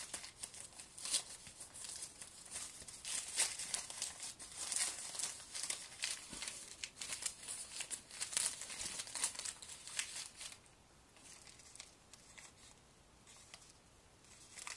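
Packaging being opened by hand, crinkling and tearing in irregular bursts, until it dies down to a few faint rustles about ten and a half seconds in.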